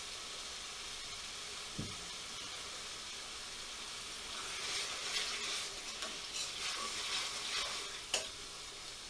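Tomato passata and spices sizzling in a pan on high heat, with a spoon stirring and scraping through the mixture from about four seconds in until about eight. Two short knocks, one near the start and one near the end.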